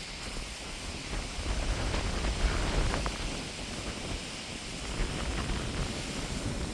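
Strong wind buffeting the microphone, a low rumbling noise that swells in a gust about two to three seconds in.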